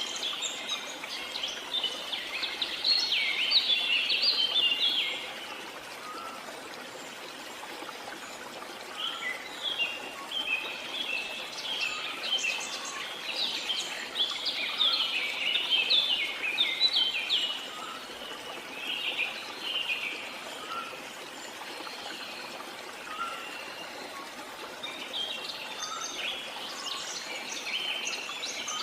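Birds chirping in fast, dense spells of short notes that come and go, over a steady hiss of running water.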